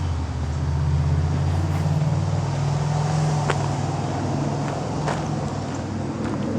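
A motor vehicle's engine running with a low, steady hum that swells a little past the middle, with a few footsteps on the trail.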